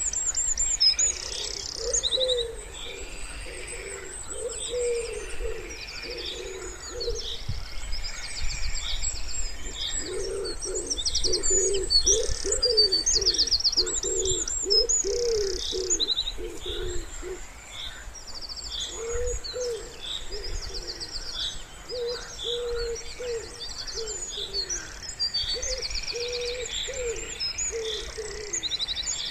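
Wood pigeon cooing in repeated low phrases, in three bouts with short pauses between them, over a steady chorus of small songbirds' high, fast trills and chirps.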